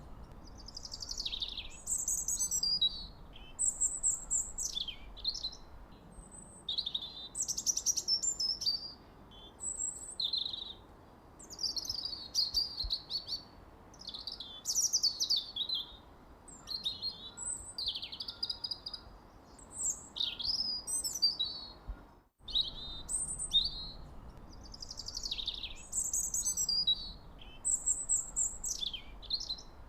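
Songbirds singing in a steady run of short chirps and trills, one phrase after another, over a faint low hiss. The sound cuts out for an instant about two-thirds of the way through, then resumes.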